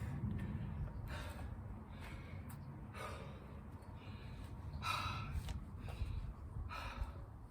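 Heavy, gasping breaths of a person winded by hard exercise, a breath every second or two.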